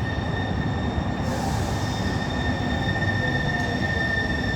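Seattle Link light rail train pulling into the station with a steady rumble and a high, steady wheel squeal. A burst of hiss starts about a second in.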